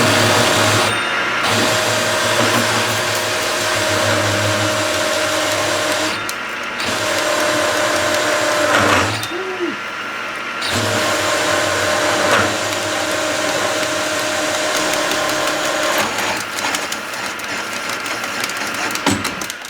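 Magnetic drill running an annular cutter through steel, its motor whining steadily. It stops briefly about a second in, around six seconds in, and for about a second near the middle, then runs on.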